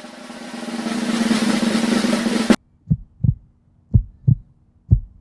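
Suspense snare drum roll building louder, then cutting off abruptly. It is followed by three heartbeat-like double thumps, about one a second.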